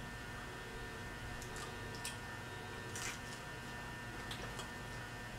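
Steady low electrical hum with a few faint, short mouth sounds of someone chewing pizza, the clearest about three seconds in.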